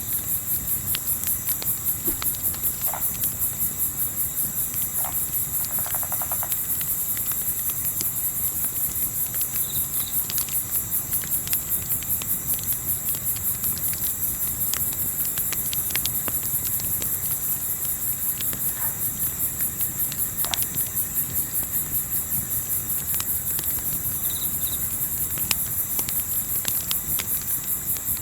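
Crickets chirping in a steady, rapid high-pitched pulse, with scattered small pops and crackles of a campfire and a low rumble underneath. A few brief faint calls sound lower down.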